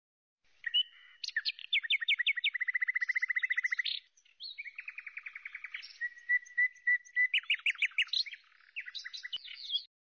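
Songbird singing: fast trills, downward-slurred whistles and sharp chirps, with a short pause about four seconds in. It starts suddenly and cuts off abruptly near the end.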